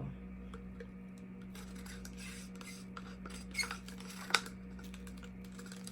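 Faint scraping and rustling with two sharp clicks near the middle, the small handling noises of cups and paint supplies, over a steady low electrical hum.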